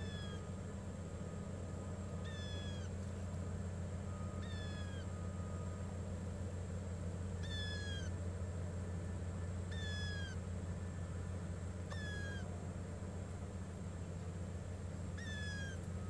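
A bird calling: a short, falling, mewing note repeated seven times, roughly every two to three seconds, over a steady low hum.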